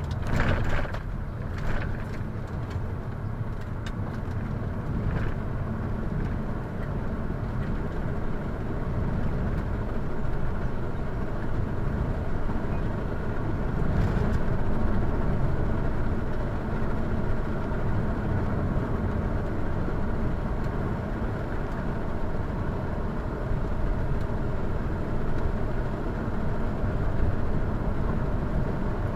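A car driving: steady engine and road noise.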